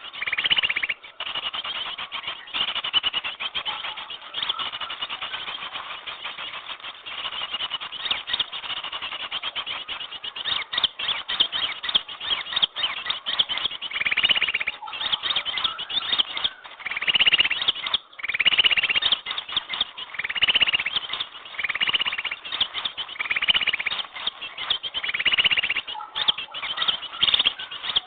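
Bird-lure recording of small birds: dense, rapid chattering and twittering, with a repeated call phrase about every one and a half seconds in the second half. It is played to draw small birds in.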